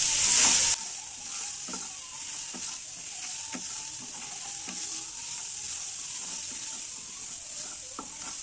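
Ground garlic and green chilli paste frying in oil with mustard seeds in a non-stick kadhai: a steady sizzle, loud at first and dropping sharply under a second in. A wooden spatula stirring through it gives light scrapes and taps on the pan about once a second.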